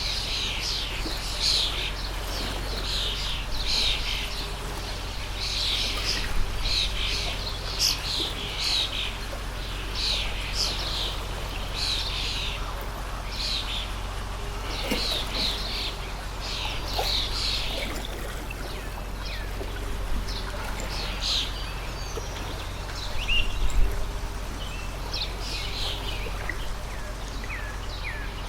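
Many small birds chirping in quick, overlapping calls, thick for most of the time and thinning out toward the end, over the steady rush of a stream. There is one brief low thump about 24 seconds in.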